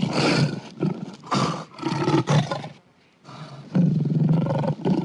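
A lion roaring: a run of deep, rough calls, a brief break about three seconds in, then another long roar starting near four seconds.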